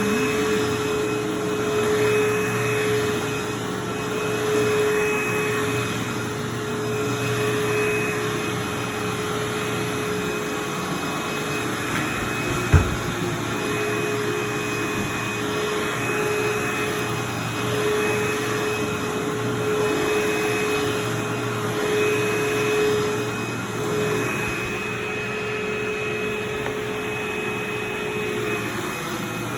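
Carpet vacuum running steadily with a constant whine, its loudness swelling and easing every couple of seconds as it is worked over the carpet. A single sharp knock about halfway through.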